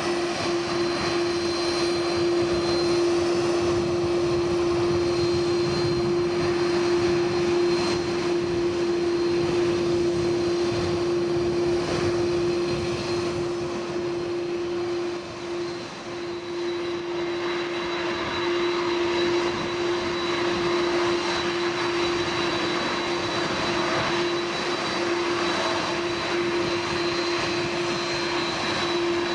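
Airbus A330-200's twin General Electric CF6-80E1 turbofans running at taxi power, a steady jet whine and hum over a broad rush, with no spool-up.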